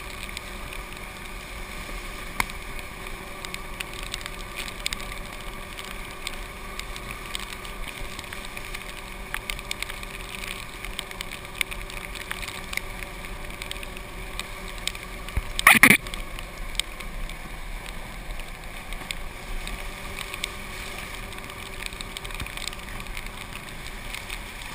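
Golf cart driving, a steady whir with small rattles and clicks, and one loud short clunk about sixteen seconds in.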